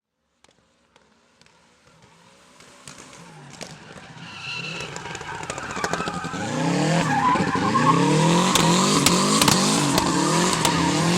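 Drift car engine revving hard, its pitch rising and falling again and again, with tyre squeal and sharp pops; the sound fades in over the first several seconds.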